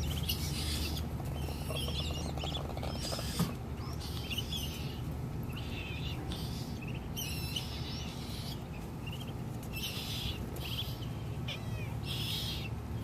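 Ducklings peeping, repeated clusters of short high chirps about once a second, over a steady low hum.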